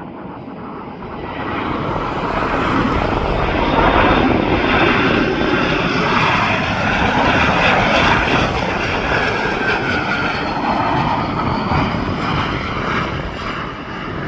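An airplane's engines passing close by: the noise swells over the first few seconds, is loudest a few seconds in, then slowly eases off.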